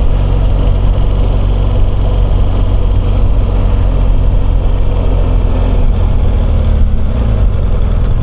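BMW R1200GS boxer-twin engine running steadily under way, a low, even drone.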